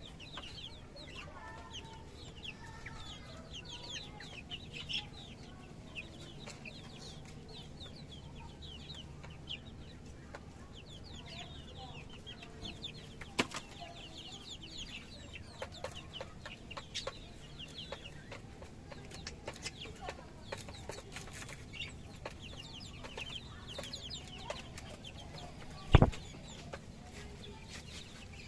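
Chickens clucking, with many short high chirps repeating throughout and a few lower clucks in the first seconds. Near the end comes a single sharp knock, the loudest sound in the stretch, with a few fainter clicks before it.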